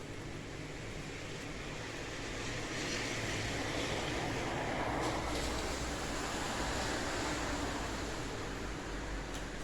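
Steady rain falling, swelling louder for several seconds in the middle before easing back.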